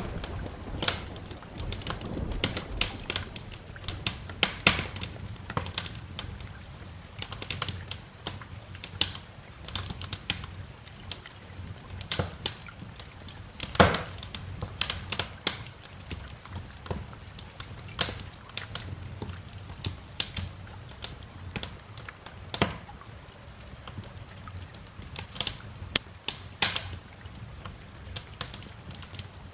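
Wood fire crackling in a fireplace: irregular sharp pops and snaps, a few every second, with one louder crack about halfway through.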